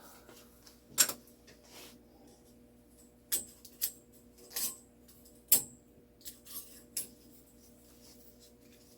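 Irregular light metallic clicks and taps from a steel clock mainspring being handled and stretched out while grease is worked onto it.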